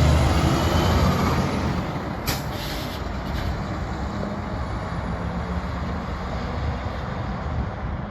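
Heavy truck driving past, its engine loudest at the start and easing into steady road traffic noise, with a short high hiss about two seconds in.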